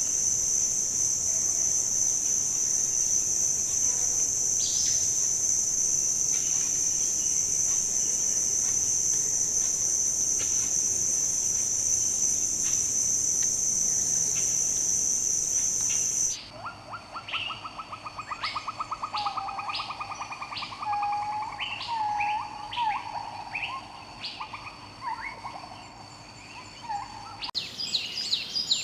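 Insects droning steadily at a high pitch, then, about halfway through, an abrupt change to several birds calling, with a fast rattling trill, short whistled notes and scattered chirps.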